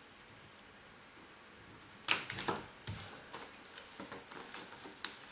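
Quiet room tone, then about two seconds in a run of irregular sharp clicks and rustles from belongings being handled during packing.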